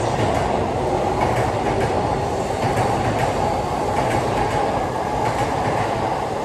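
Electric commuter trains running on parallel tracks: a steady rumble of steel wheels on rail, with a few faint rail-joint clicks.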